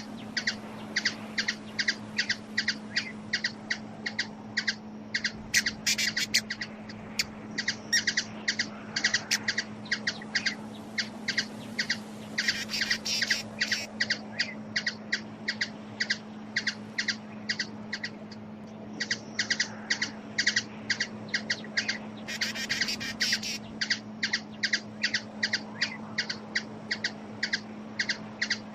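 Small bird giving a long, steady series of short chirps, about three to four a second, over a constant low hum.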